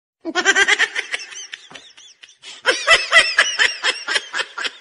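Giggling laughter in quick pulsing bursts, with a short pause about two seconds in and a louder burst of laughter after it.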